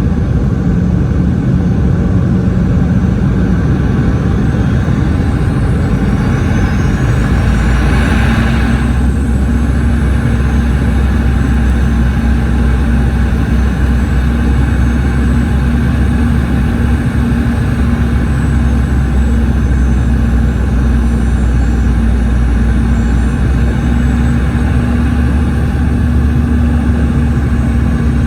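Boeing 717 cabin noise in flight near the rear-mounted Rolls-Royce BR715 engines: a loud, steady drone. About eight seconds in, a high whine sweeps upward and the engines settle onto a new, steadier low tone.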